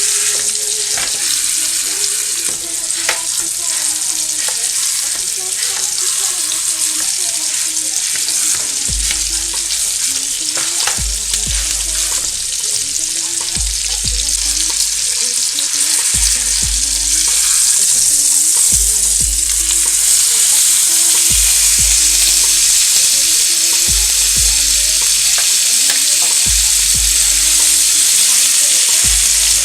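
Food frying in a pan with a steady sizzle that grows louder about halfway through, with occasional clicks and scrapes of stirring.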